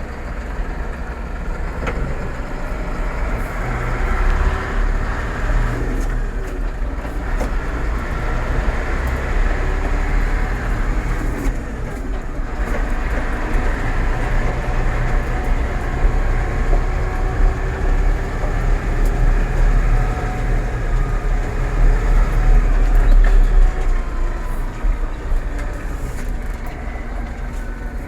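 Massey Ferguson 4708 tractor running with a whining gearbox noise over the steady low rumble of the drivetrain. The whine drifts slowly up and down in pitch; it is the gearbox noise the owner is investigating as a fault.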